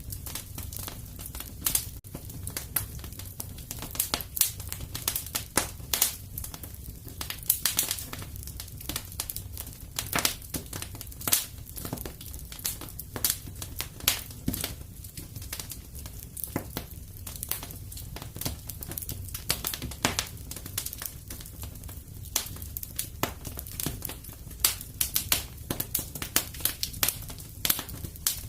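Fire crackling in a fireplace, with irregular sharp pops and snaps over a steady low rumble.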